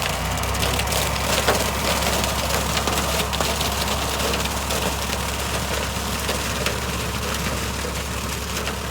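John Deere 4020 tractor engine running steadily under load while a rotary cutter shreds standing corn stalks, with a continual crackle and snapping of splintering stalks.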